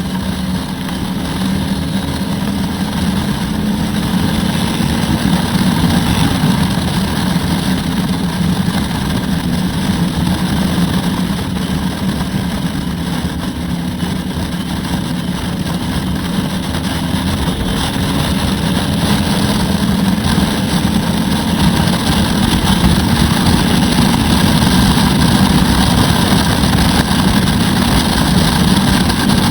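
Turbocharged Harley-Davidson Road Glide V-twin engine running steadily while riding, its note shifting gently with speed, under steady wind rush on a helmet-mounted camera.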